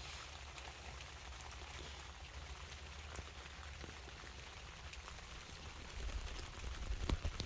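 Light, steady rain falling on a truck-bed tent's fabric, with scattered ticks of single drops. A few low knocks come near the end.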